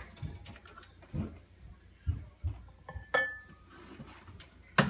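Scattered light knocks and clinks, with a short squeak about three seconds in and a sharp, louder knock near the end.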